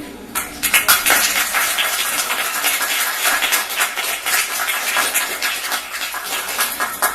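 Small audience clapping: a dense patter of hand claps that starts about half a second in and stops abruptly at the end.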